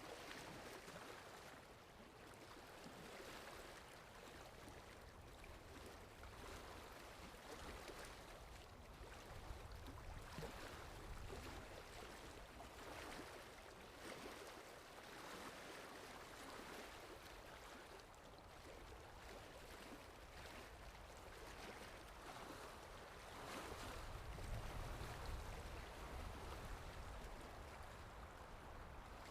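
Sea waves washing on the shore, a soft, even wash that swells and ebbs every few seconds, with a fuller surge about two thirds of the way in.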